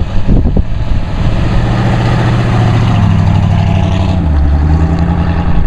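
A 289 Ford V8 in a 1929 Ford delivery sedan street rod, running through its polished stainless exhaust as the car drives past. It is a loud, steady low rumble whose pitch rises and then drops about four seconds in.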